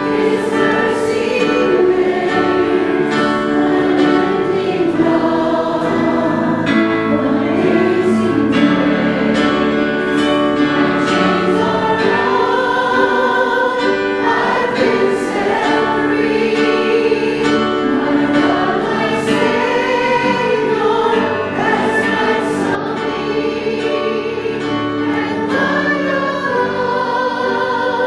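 Church choir singing a slow sacred piece in held notes.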